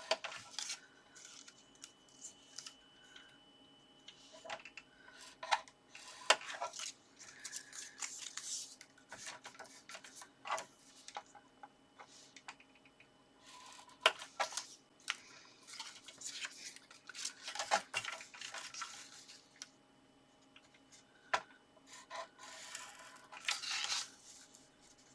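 Card pieces being scored on a scoring board: a scoring tool drawn along the grooves in several strokes, with paper rustling and light taps as the card is moved and lined up.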